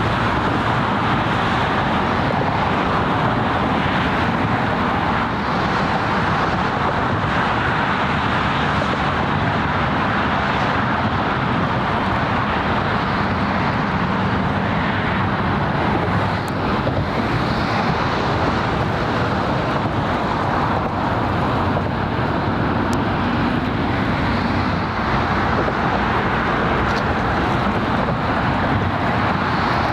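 Steady drone of road traffic, an even wash of city noise with no distinct events standing out.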